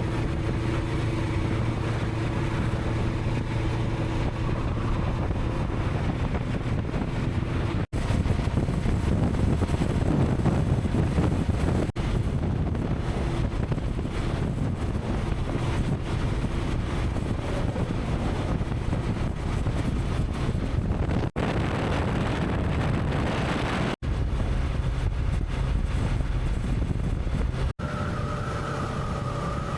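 Honda CB500X parallel-twin motorcycle engine running steadily while riding, with wind rushing over the microphone. The sound cuts out briefly about five times where separate riding clips are joined.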